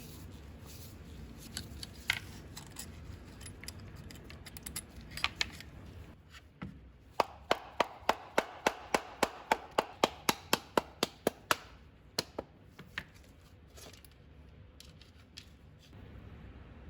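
Hand work on a small power tool: scattered clicks and knocks of metal parts and tools being handled, then a quick, even run of about twenty clicks, about five a second, lasting some four seconds.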